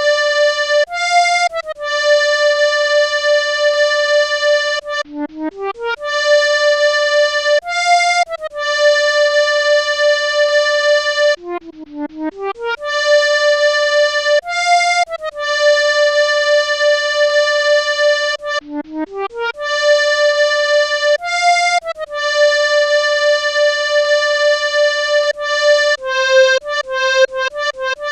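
Melodica playing a single-line melody. A quick rising run of notes leads into a long held note, and this phrase comes around four times; near the end the notes turn short and quick.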